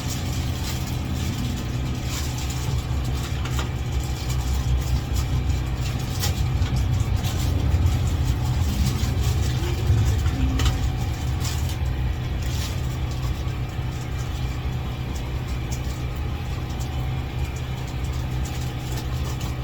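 A steady low engine hum runs throughout, with scattered short clicks and knocks.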